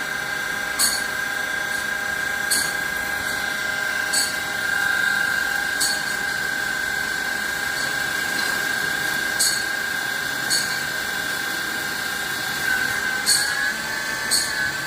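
CNC machine running with a steady high-pitched whine, cut by about eight short sharp clicks spaced one to three seconds apart; the whine steps up slightly in pitch near the end.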